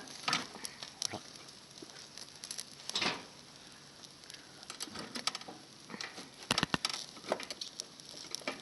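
Scattered light clicks and taps of utensils handling food at a camp cookfire, with a short louder rustle about three seconds in and a quick run of sharp clicks about six and a half seconds in.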